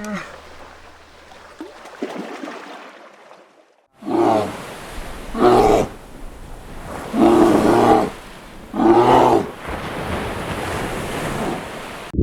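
A large animal roaring: fainter calls at first, then, after a brief break, four loud roars about one and a half to two seconds apart over a steady rushing background noise.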